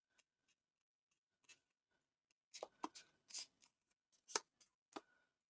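A square of patterned craft paper being folded in half and creased by hand: a handful of short crisp rustles and taps, mostly in the second half.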